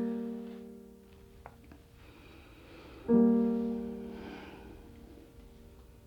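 Soft piano chords: a held chord fading away, then a second chord struck about three seconds in and left to ring out.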